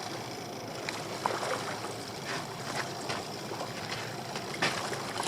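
Water sloshing against a small boat's hull in a choppy sea, with a few short sharp splashes and knocks.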